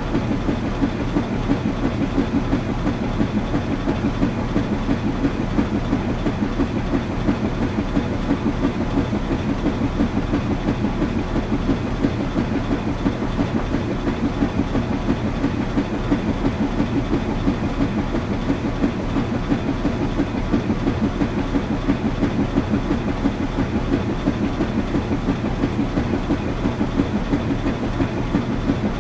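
Washing machine running steadily: a constant, fast-pulsing mechanical rumble, heaviest in the low range.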